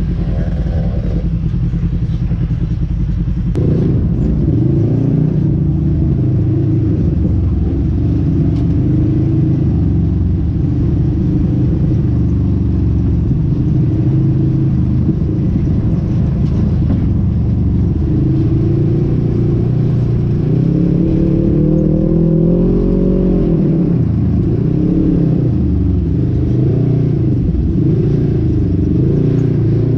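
Polaris RZR side-by-side engine running under load while being driven off-road, its pitch rising and falling again and again as the throttle is worked. It gets louder about three and a half seconds in.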